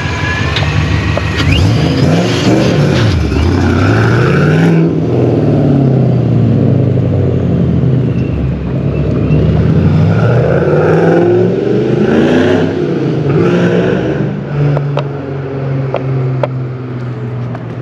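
A car engine revving, its speed rising and falling several times, then running fairly steadily near the end.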